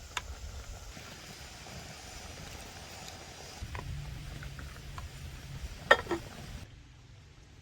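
Campfire cooking sounds: a low steady rumble with a few light clicks, and one sharp knock about six seconds in.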